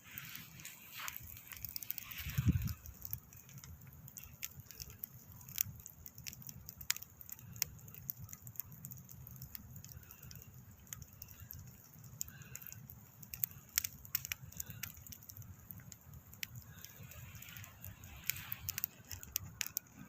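Wood campfire crackling, with scattered sharp pops and snaps. A dull low thump about two and a half seconds in is the loudest moment.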